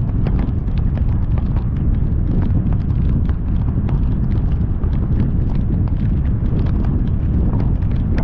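Heavy rain striking the car in dense, irregular taps over the steady low rumble of the car driving through the downpour.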